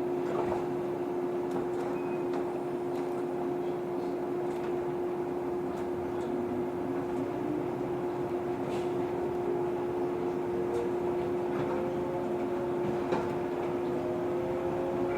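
Inside a JR 115 series electric train pulling away and gathering speed. A steady hum runs throughout, with small clicks and knocks. From about six seconds in, the traction motor and gear whine rises slowly in pitch as the train speeds up.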